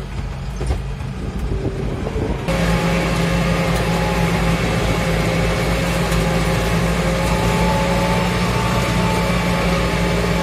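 Farmtrac 675DT tractor's diesel engine running under load as it pulls a two-furrow plough through wet, heavy soil, heard from the driver's seat. About two and a half seconds in the sound jumps suddenly louder and fuller, then holds a steady note.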